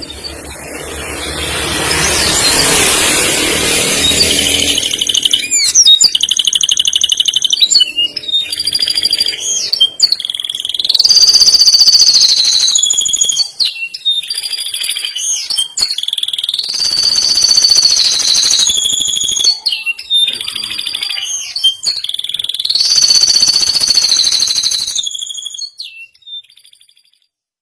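Male canary singing a long song. A harsh, rattling phrase comes first, then high whistled notes, rapid trills and long notes that bend up and down in pitch, repeated in phrases. The song stops about a second before the end.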